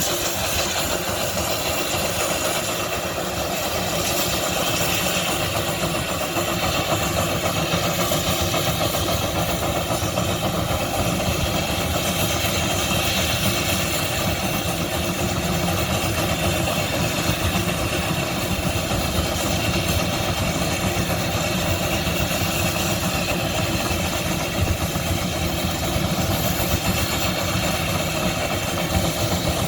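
An engine running steadily, with fast, even pulses over a continuous rumble.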